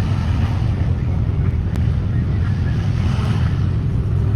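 Vehicle engine running steadily with a loud low rumble and some background hiss.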